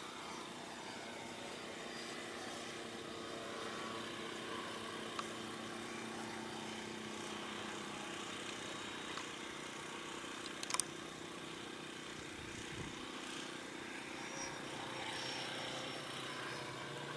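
Remote-control model airplane's engine running steadily in flight, its pitch drifting slowly. A single sharp click is heard about ten and a half seconds in.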